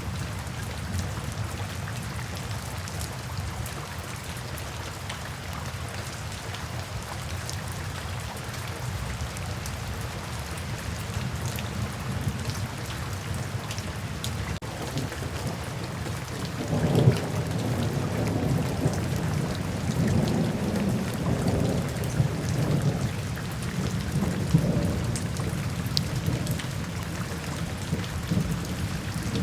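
Steady rain falling, with a low rolling rumble of thunder starting a little past halfway that swells and fades over several seconds.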